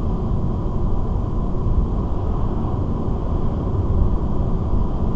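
Steady road and engine noise of a car cruising at about 80 km/h, heard from inside the cabin as an even low rumble with no change in pace.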